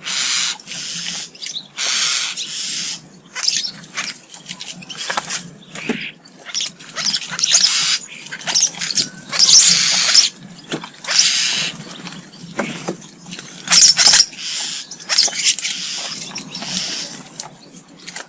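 A group of common starlings at a garden feeder, giving a rapid, irregular run of harsh, scratchy calls and clicks in short bursts.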